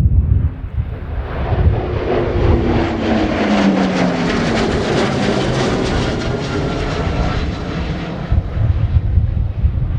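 Boeing P-8A Poseidon's twin CFM56 turbofan engines on a low fly-by. The jet noise swells to a peak about halfway through and then fades, with whining tones that fall in pitch as the aircraft passes. Wind buffets the microphone at the start and again near the end.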